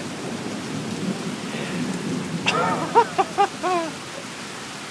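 Steady rain with a low rolling rumble of thunder. A person's voice sounds a few short syllables about two and a half seconds in.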